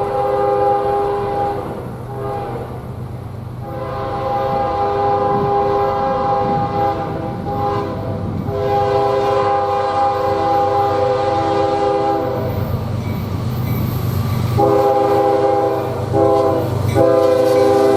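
Diesel locomotive air horn sounding a chord in a series of long blasts with short breaks, the last ones coming in quick succession near the end, over the low rumble of the passing train.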